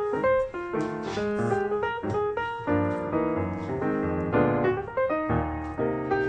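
Background piano music, a lively run of notes over a bass line.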